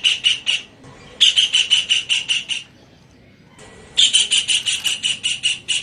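Kingfisher calling in rapid runs of sharp, repeated notes, about eight a second, in three bouts with short pauses between them.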